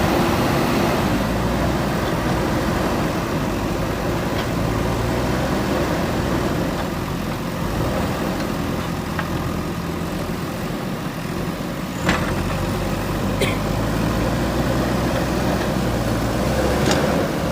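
JCB 3DX backhoe loader's diesel engine running steadily, with a few sharp knocks in the second half.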